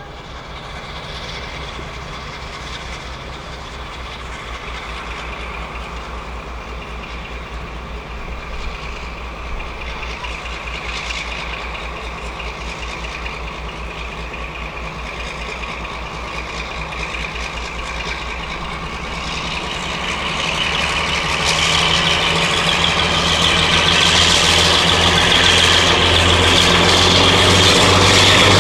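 Diesel-hydraulic Western class locomotive D1062 Western Courier, with twin Maybach engines, running steadily and getting louder as it approaches, with a rising engine whine in the last few seconds.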